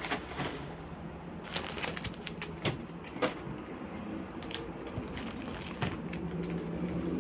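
Irregular light clicks and knocks of plastic refrigerator shelves and containers being handled and fitted back into place, over a faint low steady hum.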